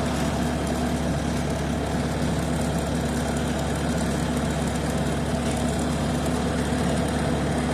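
A vehicle engine running steadily at an even, unchanging pitch.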